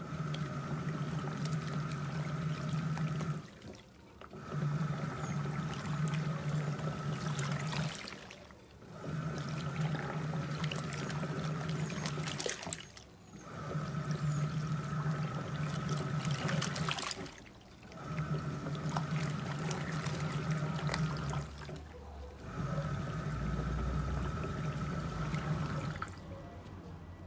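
Panavox washing machine agitating: the motor runs with a steady hum for about three and a half seconds, pauses briefly, then runs again, six times in a regular rhythm, with water churning in the drum.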